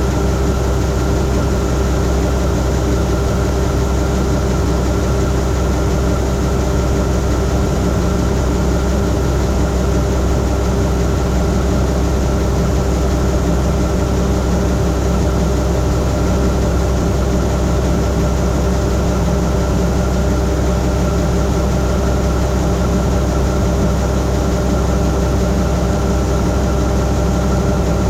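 Heavy diesel engine of farm harvest machinery running at a steady speed: an unchanging drone with a strong low hum and steady whining tones above it.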